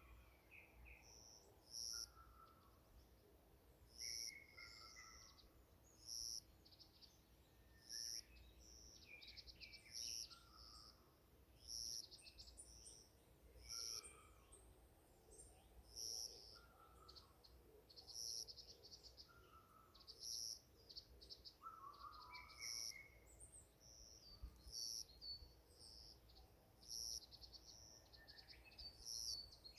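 Several forest birds singing and chirping, one sounding a short high call about every two seconds while others add lower whistled notes and trills.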